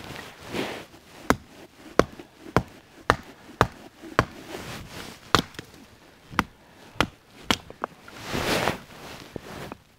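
Wood being chopped or split by hand: repeated sharp blows, roughly two a second, with a longer rustle near the end.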